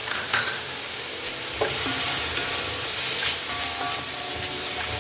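Onions, green chillies and chopped tomatoes frying in hot ghee in a pot, sizzling as they are stirred with a spoon. Soft background music comes in about a second and a half in.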